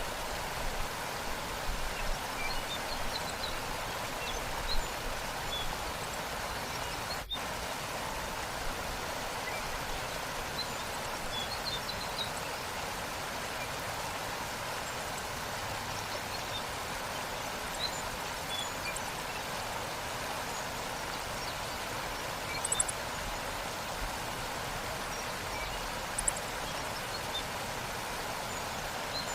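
Waterfall water rushing steadily over rocks, with faint, scattered high bird chirps above it. The sound breaks for a split second about seven seconds in.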